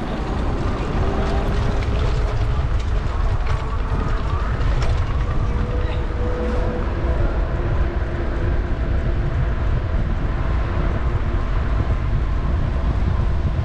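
Steady low wind rumble on the microphone of a moving bicycle, over city street noise with faint voices.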